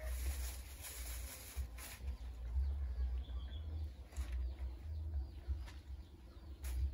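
Outdoor ambience with faint bird chirps over an uneven low rumble, broken by a few short clicks.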